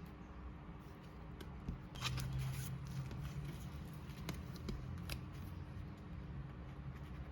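Rustling and scattered light clicks of album packaging and cards being handled and unpacked, busiest from about two seconds in, over a faint steady hum.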